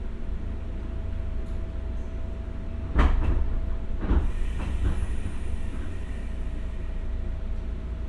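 Inside a JR West 201 series electric commuter train as it runs: a steady low rumble with a sharp knock about three seconds in and a few lighter knocks over the next two seconds.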